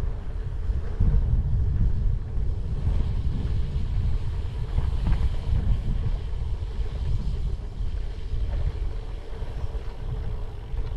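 Wind buffeting the microphone of a bicycle-mounted camera while riding: a loud, steady, gusting low rumble.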